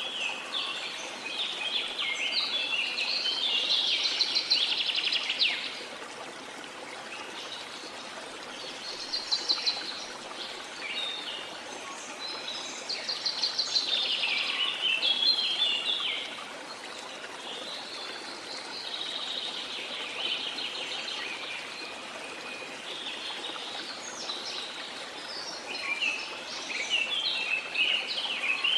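Several birds singing in repeated bursts of rapid chirps and trills, coming and going every few seconds, over the steady rush of a waterfall.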